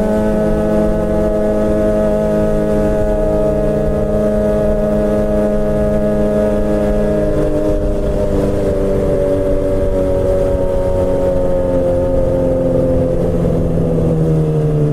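Suzuki GSX-R600 K7 inline-four with a straight-piped M4 exhaust and no catalytic converter, running under way at high revs, loud and steady, its pitch slowly falling.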